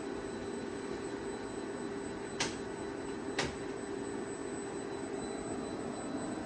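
Repaired KEB industrial inverter (variable-frequency drive) running on test: a steady hum with a thin high whine over a noisy hiss. Two sharp clicks sound about a second apart midway.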